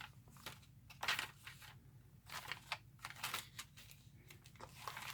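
Paper and craft supplies handled on a tabletop: a string of short, irregular taps and rustles, the sharpest about a second in.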